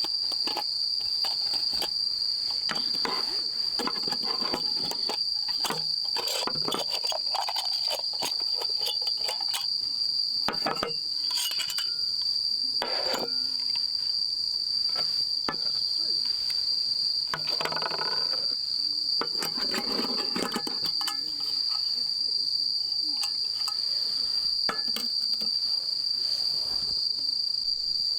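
Bell crickets (suzumushi) singing steadily, with intermittent clinks and knocks in the foreground.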